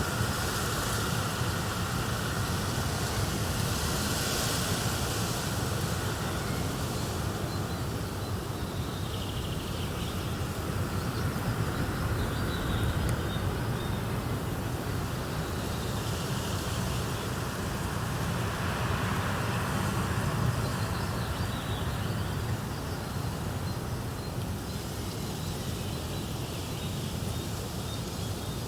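A fire burning steadily in a fireplace, a continuous low rumble with a dense crackle, while faint high chirps come and go in the background.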